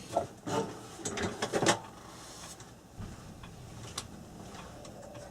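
Handling clatter of metal clock parts: a quick run of knocks and rattles in the first two seconds as the ballast and screw are moved about on the clock's metal plate, then a few light clicks.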